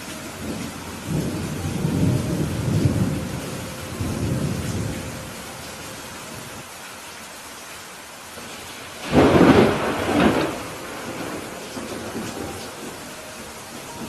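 Steady heavy rain with thunder. A low rolling rumble swells in the first few seconds, then a sudden loud thunderclap comes about nine seconds in, with a second peak a second later.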